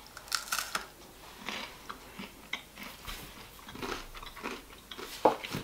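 People biting into and chewing a small breaded, schnitzel-like Japanese snack: an irregular run of short crunches and mouth clicks.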